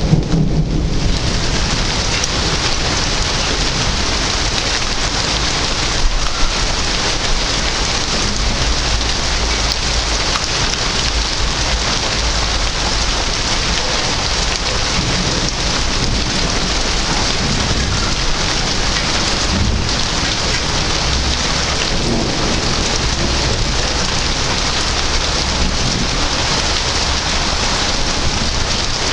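Steady rain falling, with low rumbles of thunder now and then.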